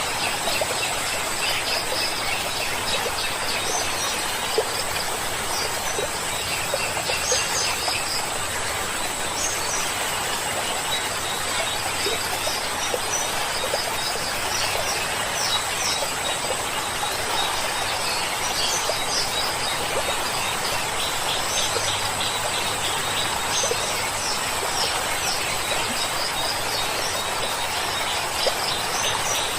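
Forest stream flowing with a steady rush, with songbirds chirping and singing over it in short high calls that come and go.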